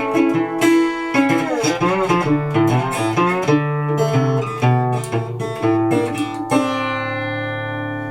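Recording King Swamp Dog parlor resonator guitar in open D tuning played with a slide: picked notes with sliding glides in pitch, ending on a struck chord left to ring and fade.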